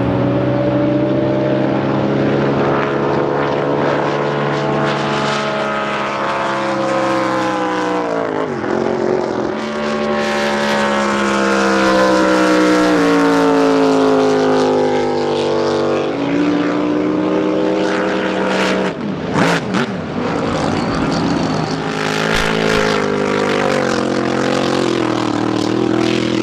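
Racing drag boat engines running at high power, their pitch sweeping downward several times as the boats pass and throttle off.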